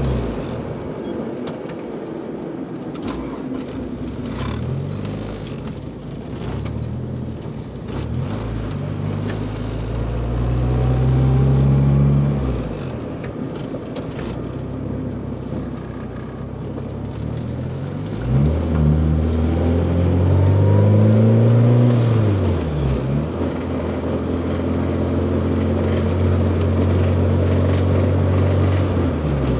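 1993 Honda Civic engine idling and revved several times, its pitch rising and falling with each blip, the two longest revs about a third and two-thirds of the way through. The engine has a knocking sound.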